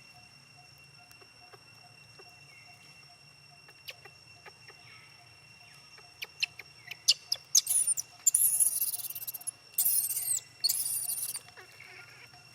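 Baby monkey squealing: a run of short, sharp, high chirps, then three long, shrill, loud squeals in the second half.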